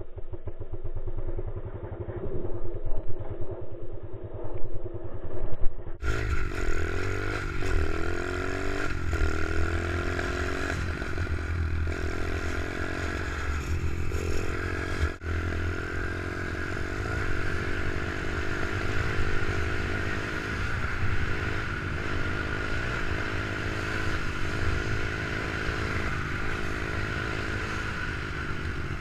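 Small pit bike engine running and being revved up and down repeatedly, its pitch rising and falling. About six seconds in, the sound turns much clearer and fuller.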